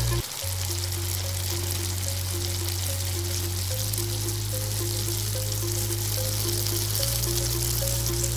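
Batter-coated chicken pieces deep-frying in hot oil, a steady sizzle, under background music with sustained bass notes and a repeating run of short notes.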